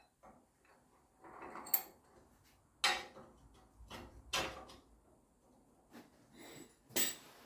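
Sharp knocks and clanks of tools and metal pieces being handled and set down, about four of them spread over several seconds, the loudest near the end, with a short scraping shuffle before the first.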